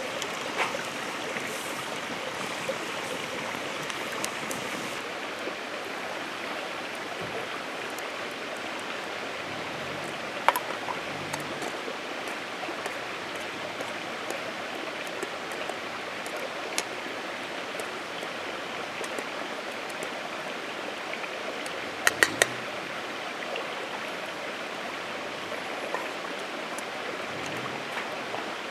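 Steady hiss of rain falling, with a few short sharp knocks, a small cluster of them about two-thirds of the way through.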